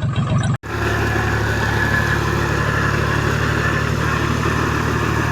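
Tractor engine running steadily with a constant, even note. There is a brief cut-out about half a second in.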